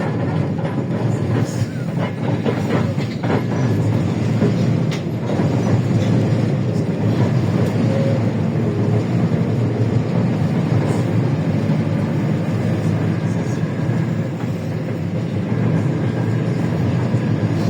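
Cabin of a LiAZ-677M city bus on the move: steady low drone of its V8 petrol engine and road rumble. Scattered rattles and clicks from the body come mostly in the first few seconds.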